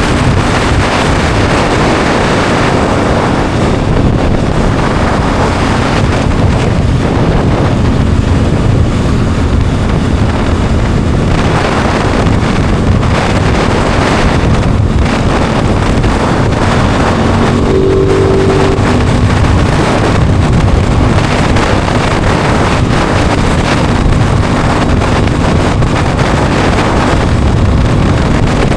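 Aprilia Tuono 660 Factory's 659 cc parallel-twin engine running steadily under way, under heavy wind noise on the microphone. A brief steady tone sounds about eighteen seconds in.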